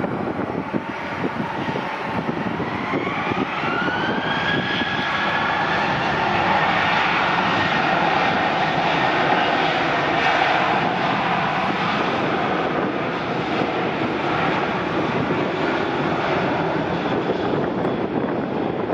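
Boeing 737-800's CFM56-7B turbofan engines spooling up for takeoff: a whine rises about two seconds in and levels off a couple of seconds later over a steady jet roar, which swells to its loudest midway and eases slightly near the end.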